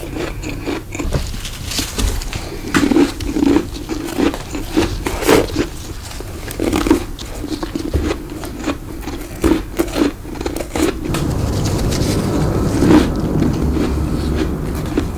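Close-miked biting and chewing of freezer frost: a run of crisp, crunchy bites, turning into steadier grinding chews near the end.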